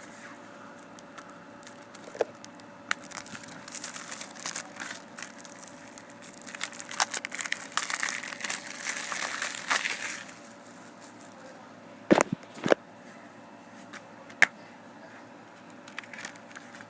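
Plastic wrapping crinkling and tearing as a Blu-ray case is unwrapped, for several seconds. Then a few sharp plastic clicks as the case is snapped open.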